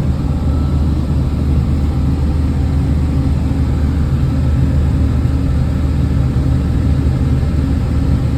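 John Deere 6600 combine running steadily under harvest load, a constant low engine drone.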